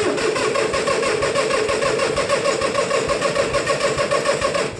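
International Harvester 484 tractor engine being cranked and started, a steady rapid rhythmic chugging that stops near the end. It is a hard start.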